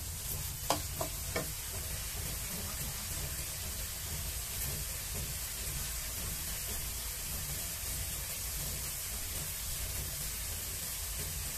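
Fried rice with carrot and fish sizzling steadily in a wok over a gas flame. A wooden spatula knocks against the wok a few times in the first second and a half, then the sizzling goes on alone over a low steady hum.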